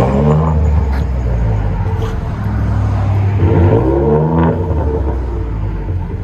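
The twin-turbo 3.5-litre EcoBoost V6 of a 2014 Ford F-150 revving twice through a dual exhaust with a Carven R-Series muffler and the resonator deleted, its pitch rising and falling back each time.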